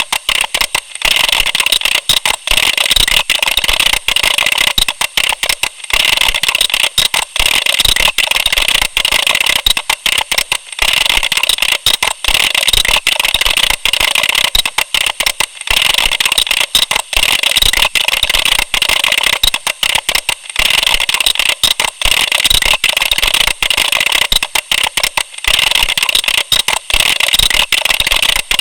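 Computer keyboard being typed on fast: a dense, continuous run of key clicks, with a brief pause about every five seconds.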